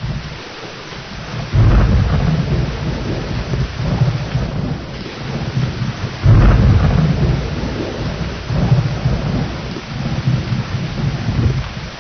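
Steady heavy rain with rolling thunder. The thunder breaks in suddenly about one and a half seconds in and again about six seconds in, each time rumbling on for several seconds.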